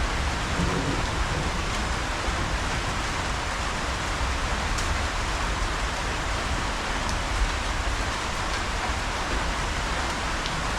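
Steady rain falling: a dense, even hiss with a few separate drops ticking, over a constant low rumble.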